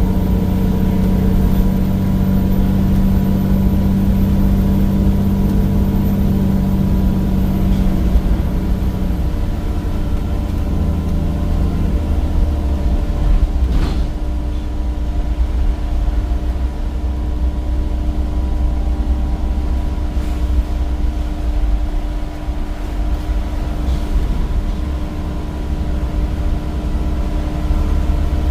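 Temsa Avenue bus's replacement Cummins diesel engine with ZF gearbox running under way. A strong engine tone holds for the first nine seconds or so, then the note drops and it runs on lower and deeper. There is a single sharp click about halfway through.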